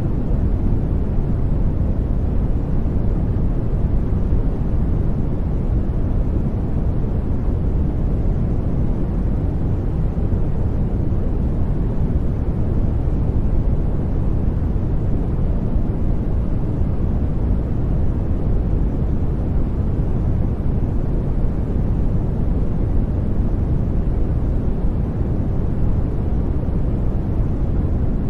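Steady sleep noise track: an even, deep rushing hiss weighted to the bass, like brown noise, with no changes.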